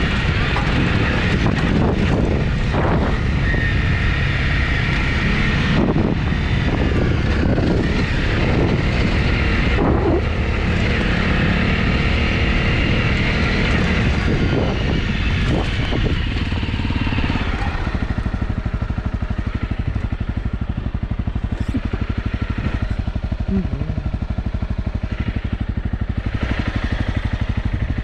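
Honda CRF250's single-cylinder four-stroke engine running steadily as the motorcycle is ridden. For the last ten seconds or so it runs a little quieter and more evenly.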